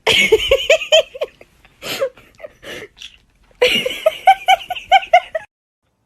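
Two runs of rapid, high-pitched laughter, a quick 'ha-ha-ha' of about six beats a second, the second run starting about three and a half seconds in. The sound cuts off abruptly near the end.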